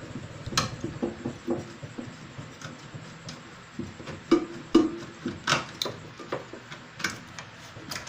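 Irregular sharp clicks and metallic knocks of a microwave oven's shorted high-voltage capacitor being unclipped from its wiring and pulled out of its mounting; the loudest knock comes a little under five seconds in.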